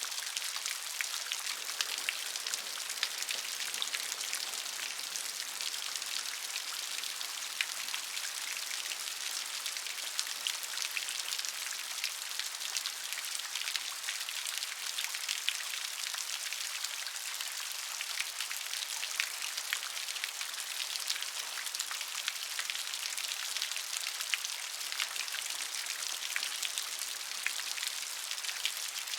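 Steady gentle rain: a dense patter of fine drop ticks over an even hiss, high and light with almost no low rumble.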